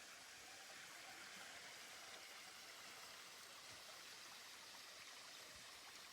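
Faint, steady rush of water with no distinct drops or strokes.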